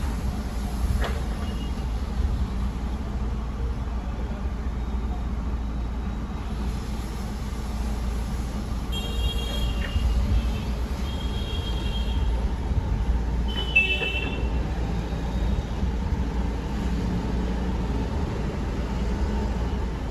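Hyundai car engine idling steadily on its CNG kit while the kit's idle RPM is being set: a low, even rumble. A few short high-pitched tones sound about halfway through.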